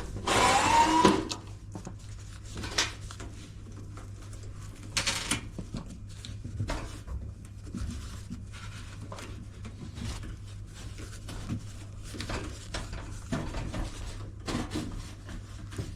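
Plastic catches and panel parts of an LG washing machine being pressed, pried and unclipped by hand. A loud scraping squeak in the first second, then scattered clicks and knocks.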